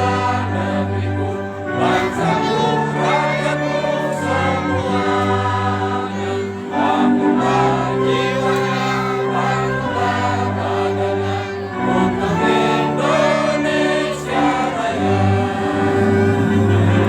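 Women's choir singing in parts, over a low accompaniment whose bass notes change every couple of seconds.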